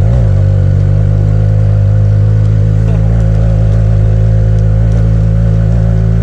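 Benelli TNT 300's parallel-twin engine through a Yoshimura aftermarket exhaust, running at steady revs under load on an uphill climb.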